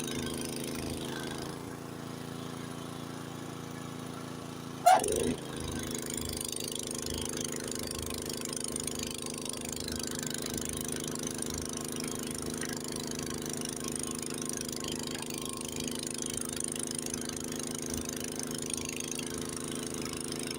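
Honda HS80 tracked snowblower's engine running steadily under load while clearing deep snow. A short, loud sound with a falling pitch cuts in about five seconds in.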